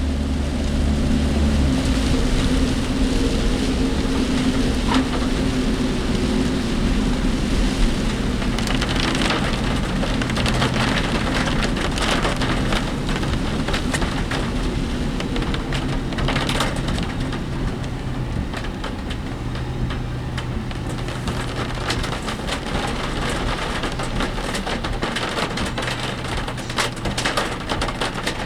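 Heavy typhoon rain drumming on a work vehicle, heard from inside the cab, over the steady hum of the engine and the vehicle's constant rattling, with scattered sharp clatters.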